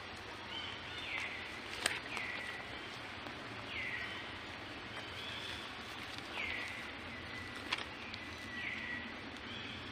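A bird calling over and over, a downward-sliding whistled note that levels off briefly, about every two seconds, over steady outdoor background noise. Two sharp clicks come about two seconds in and near the end.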